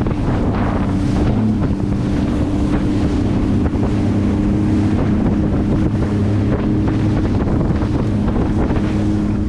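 Sea-Doo jet ski engine running at a steady speed, its pitch holding level, with wind buffeting the microphone and water rushing past.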